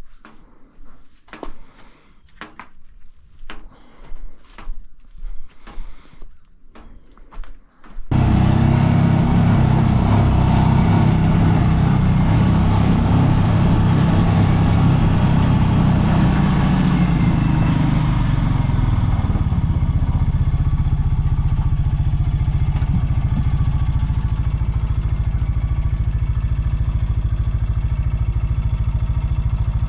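An engine starts running abruptly about eight seconds in, loud and steady, then settles into an even, lower idle about ten seconds later. Before it, scattered clicks and knocks sound under a steady insect chirring.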